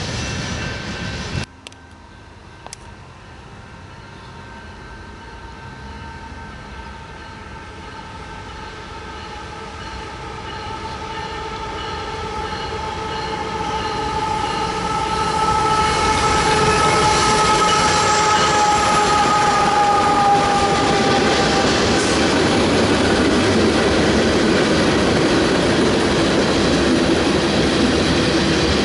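Freight train's diesel locomotive horn sounding a long multi-note chord that grows louder as it approaches and drops slightly in pitch as it passes. Then comes the steady loud noise of the locomotives and freight cars rolling by. A different sound cuts off abruptly about a second and a half in.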